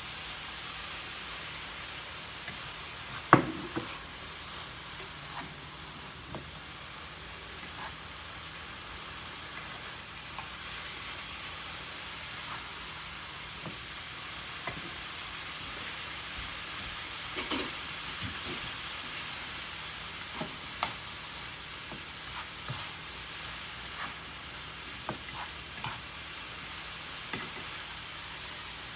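Cauliflower fried rice sizzling steadily in a frying pan while being stirred, the utensil clicking and knocking against the pan now and then, loudest about three seconds in.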